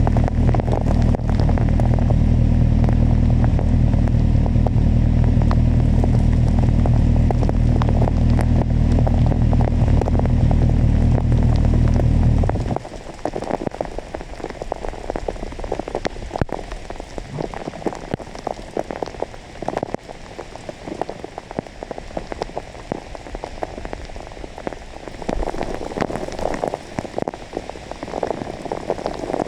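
Kawasaki motorcycle engine idling steadily in heavy rain, then stopping abruptly about twelve seconds in, leaving only the rain pattering down.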